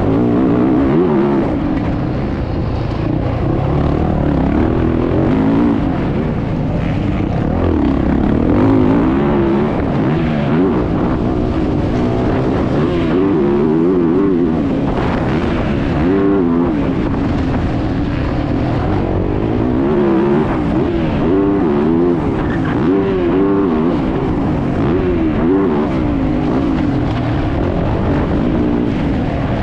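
Motocross bike engine revving up and down continually as it is ridden hard round the track, heard close on board with wind on the microphone.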